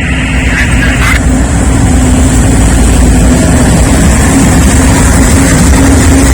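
Freight train's diesel locomotives passing close by: a loud, steady engine rumble with a constant droning tone and a high hiss from the rails. A higher-pitched sound that was already going stops abruptly about a second in.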